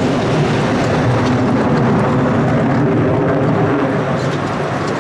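Fixed-wing aircraft's engine noise, a loud steady rumble that swells slightly over the first couple of seconds.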